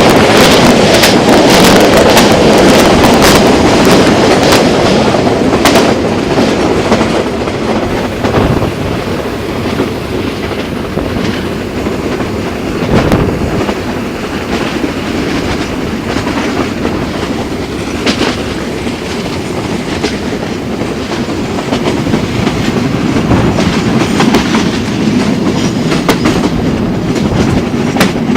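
Train running on the rails, wheels clattering steadily over the rail joints. Loudest for the first several seconds, then quieter and steadier, rising a little again near the end.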